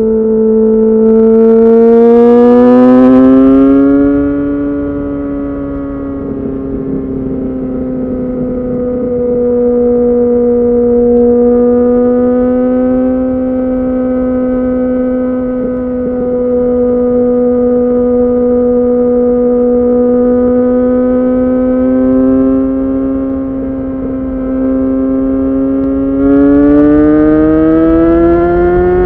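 Yamaha FZ6N's 600 cc inline-four running through a Two Brothers aftermarket exhaust while riding at a fairly steady speed. The pitch rises as it accelerates about two seconds in and again near the end.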